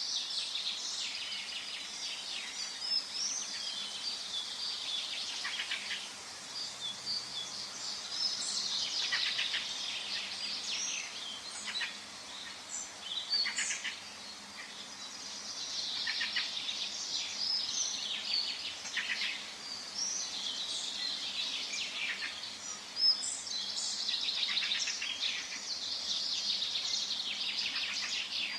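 Many birds singing and chirping at once in a forest, a dense chorus of overlapping high chirps and trills that swells and eases in waves.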